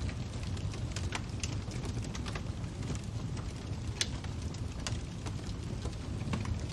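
Fire crackling: a steady low rumble with sharp, irregular pops and snaps every second or so.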